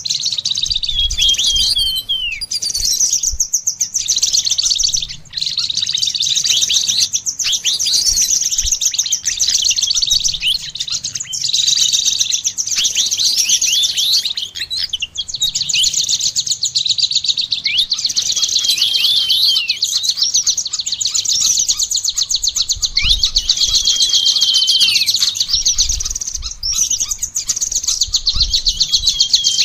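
Caged songbirds singing together: a dense, unbroken high trill with quick chirps and short falling whistled notes laid over it.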